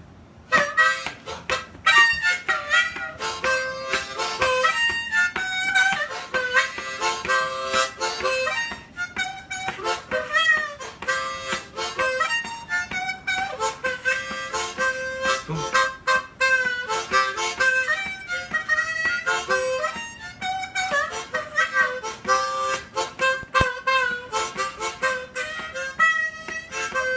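Harmonica playing a quick, rhythmic run of short notes and chords without pause.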